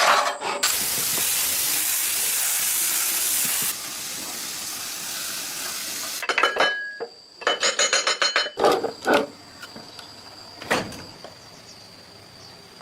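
A loud steady hiss lasting about three seconds, dropping to a softer hiss, then a quick run of metallic clinks and knocks, followed by scattered clicks over a faint steady high tone.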